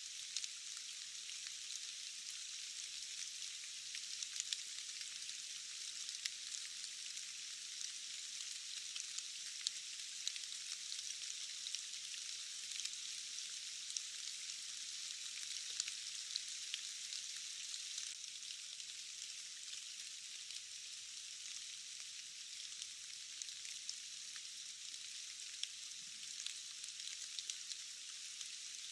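Steady rainfall: an even, high hiss with many small scattered drop ticks and almost no low rumble.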